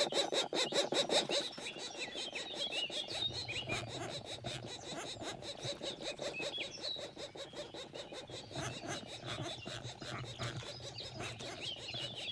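Black woodpecker nestlings begging to be fed, a fast, even run of short calls, about five or six a second, with scattered higher chirps over it.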